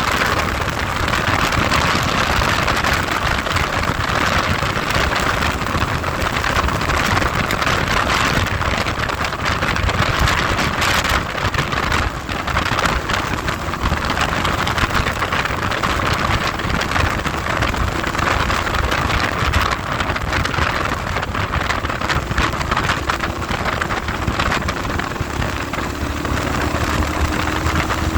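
Heavy wind buffeting on the microphone from a moving vehicle, with the vehicle's engine running faintly underneath and rising in pitch near the end.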